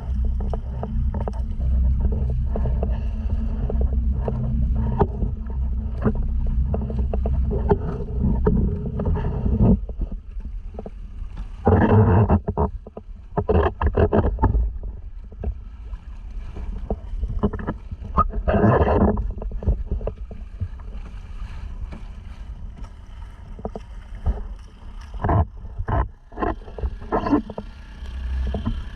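Sounds of a motorized sea kayak on the water: a steady low rumble for about the first ten seconds that then falls away, followed by scattered splashes and knocks.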